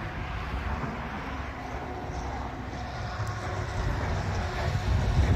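Wind buffeting the microphone as a low, uneven rumble over outdoor ambience, gusting louder near the end.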